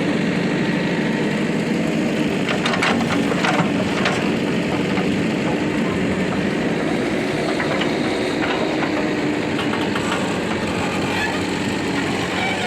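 Diesel engine of a backhoe loader or tractor running steadily, with a few sharp knocks about two to four seconds in.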